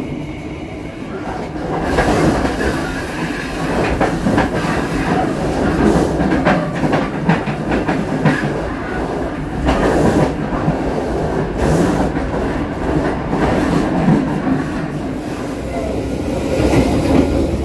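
Passenger train running, heard from inside an economy carriage: a steady rumble of wheels on the rails with scattered clacks.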